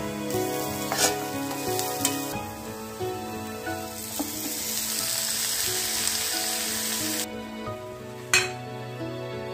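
Onions and spices frying in oil in a non-stick pan, sizzling, with a steel spatula stirring and knocking on the pan a few times. The sizzle grows louder once chopped spinach goes into the hot oil, then cuts off suddenly; a sharp spatula knock follows near the end.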